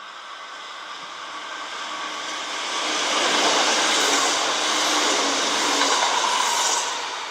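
Kintetsu electric train passing through the station. It grows louder over the first few seconds, holds at its loudest and eases off near the end.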